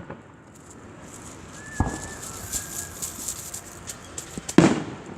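Two fireworks shells bursting overhead, a duller boom about two seconds in and a louder bang near the end, with faint crackling and a thin whistle between them.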